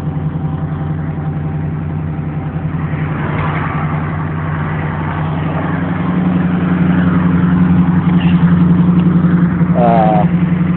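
Carbureted 350 small-block V8 of a 1984 Camaro Z28 running steadily while it warms up after a cold start on its automatic choke. It gets a little louder about halfway through and holds there.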